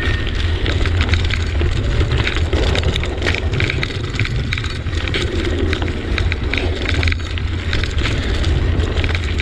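Bicycle in motion: a steady low rumble from the ride and wind on the microphone, with frequent sharp clicks and rattles from the bike.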